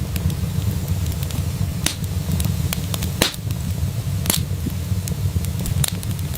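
Wood fire in a fireplace crackling: a steady low rumble under irregular sharp pops and snaps, with a few louder pops about two, three and four seconds in.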